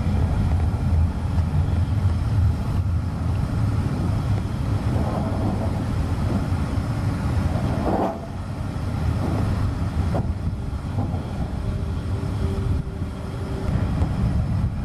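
Steady low rumble of highway traffic, with a couple of short knocks about eight and ten seconds in.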